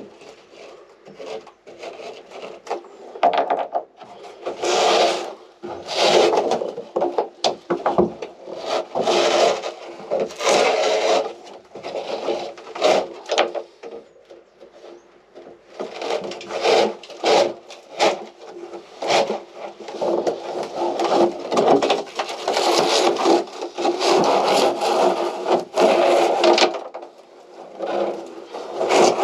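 Milwaukee oscillating multi-tool cutting into wood, its blade buzzing in many uneven bursts as it bites and eases off.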